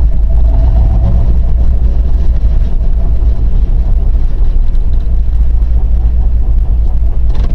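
Vehicle on the move: a steady, loud low rumble of engine and road noise, heaviest in the deep bass.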